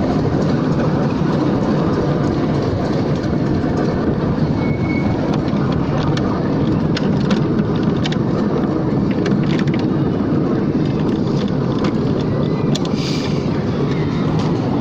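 Miniature railway train running, a steady rumble from the wheels and carriages with scattered faint clicks.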